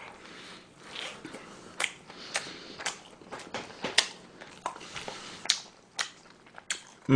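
Close-miked chewing of a mozzarella burger: soft mouth noises with about a dozen sharp wet clicks and smacks scattered through.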